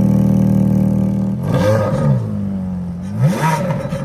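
Ferrari F430's V8 running at a high idle just after a cold start, then blipped twice: the revs rise and fall about a second and a half in and again near the end.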